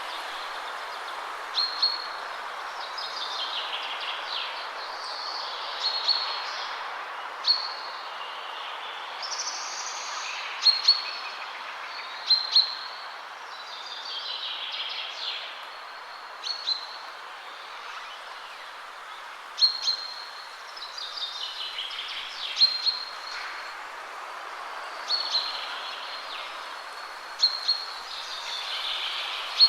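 Birds singing and calling, with short repeated chirps every second or two, over a steady rush of wind through trees.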